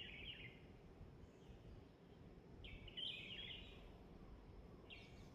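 Faint songbird phrases, each a quick run of chirpy notes: one at the start, a longer one about three seconds in, and another beginning near the end, over a low, steady background hum of outdoor noise.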